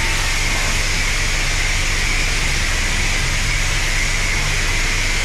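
High-pressure spray wand at a self-serve car wash spraying water, a steady hiss over the low, even hum of the machinery.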